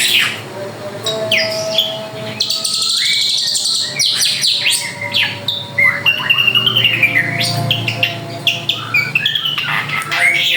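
Drongo singing a varied, continuous song of whistles, sweeping chirps and rapid trills, in full song.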